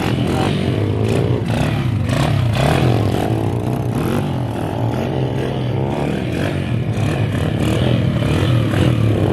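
Several small pit bike engines revving together, their overlapping pitches rising and falling with the throttle.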